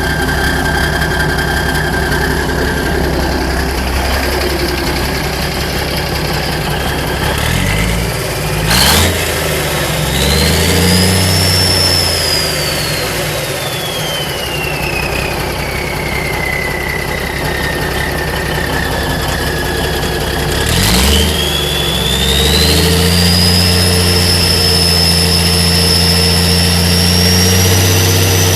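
Straight-piped small-cam Cummins 855 diesel, running with no exhaust: idling, then blipped up about a third of the way in, settling back, and revved again about three quarters of the way in and held at a higher speed. A high whistle climbs after each rev and slowly sinks back as the engine settles.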